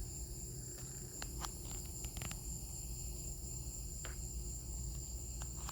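Steady high-pitched chorus of crickets, with a few faint clicks and knocks.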